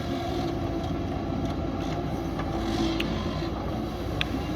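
JCB backhoe loader's diesel engine running steadily while working, with a few short, sharp clicks about three and four seconds in.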